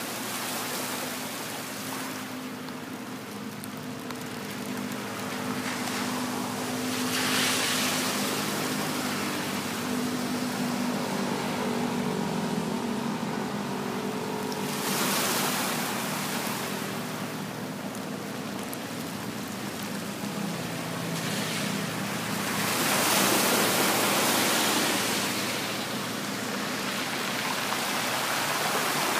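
Sea waves washing ashore, the surf swelling and ebbing, with louder surges about a quarter, half and three-quarters of the way through. A faint steady hum lies underneath.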